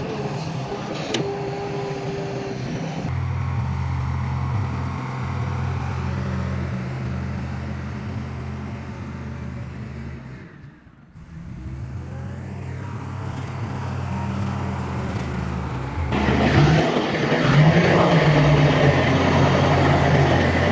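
Heavy diesel engines of earthmoving machinery running steadily, the sound changing abruptly a few times, with a brief drop near the middle. It gets louder and rougher over the last few seconds.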